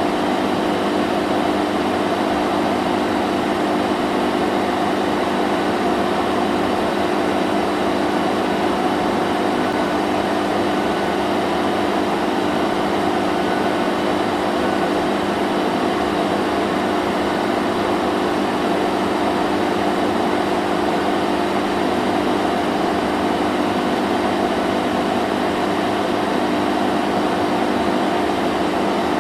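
Vacuum cleaner running continuously: a steady, unchanging motor hum and airflow rush with a few held tones.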